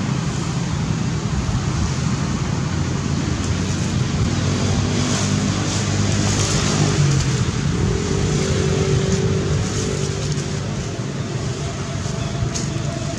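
Steady engine noise of a motor vehicle running nearby, with a brief rising then held whine about eight seconds in.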